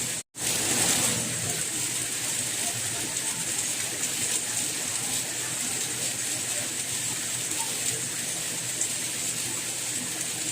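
Steady rain, an even hiss with most of its energy high up. It cuts out completely for a split second just after the start, then comes back slightly louder for about a second before settling.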